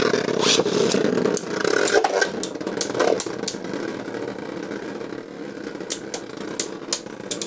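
Two Beyblade Burst spinning tops whirring in a plastic stadium, with sharp clacks as they collide. The whir slowly grows quieter as the tops spin down.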